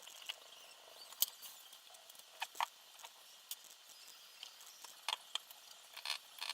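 Scattered light clicks and taps, irregular and a second or so apart, from small parts and tools being handled during assembly.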